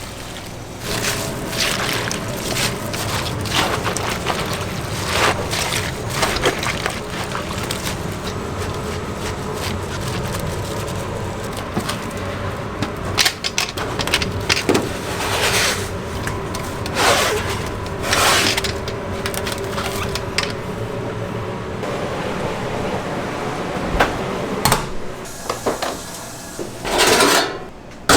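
Restaurant kitchen work: water running and repeated clattering of utensils or pans over a steady hum.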